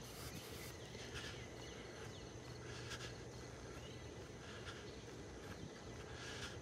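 Faint chorus of frogs calling after a rainstorm, with repeated calls every second or so.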